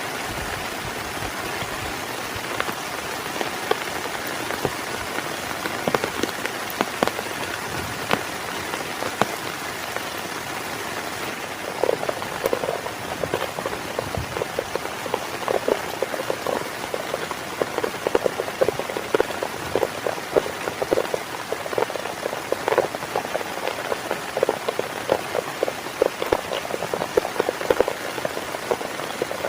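Heavy rain falling steadily, with many separate drops striking a surface close to the microphone. The drop strikes come thicker and louder from about twelve seconds in.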